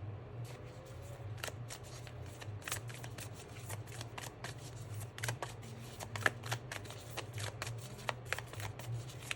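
Tarot cards being shuffled by hand: many quick, crisp card clicks and flicks. A steady low hum runs beneath.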